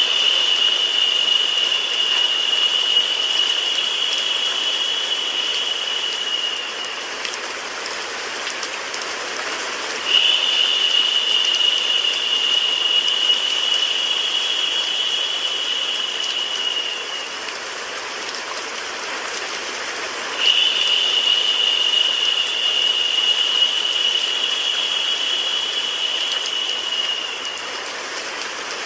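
Steady rain sound mixed with white noise, an even hiss. Over it a high, steady tone starts sharply and lasts about seven seconds, three times about ten seconds apart, and this tone is the loudest part.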